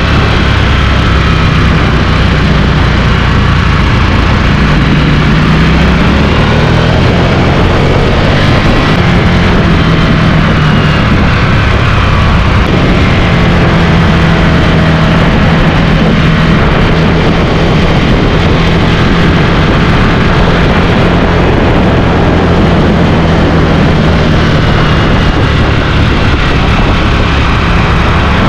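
Motorcycle engine running steadily and loudly under a dense rushing noise, its low hum shifting in pitch a few seconds in.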